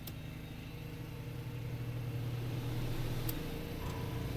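Lifan Energy Storm ESI 3600 inverter generator running and gradually speeding up as it takes on the air conditioner's load on top of a microwave. A sharp click right at the start and another about three seconds in.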